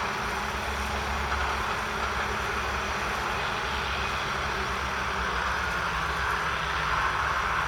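Massey Ferguson 1200's 5.8-litre six-cylinder diesel engine running steadily under a broad mechanical hiss, a little louder near the end.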